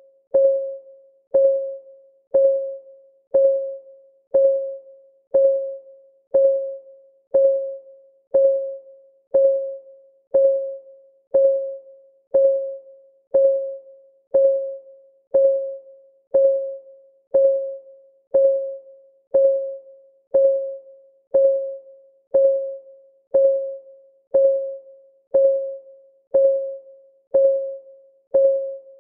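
Countdown timer's clock ticking sound: one short, pitched tick every second, each fading quickly, in a steady unbroken rhythm.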